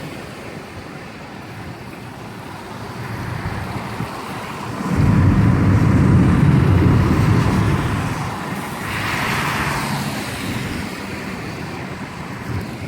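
Thunder from a severe thunderstorm: a loud, low rumble breaks in about five seconds in and fades over a few seconds, over a steady rush of wind and rain. A stronger rushing gust follows a little later.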